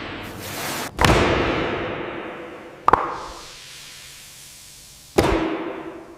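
Three heavy impacts, about a second in, near the middle and near the end, each followed by a long fading rumble and ringing. A rushing hiss runs before the first impact.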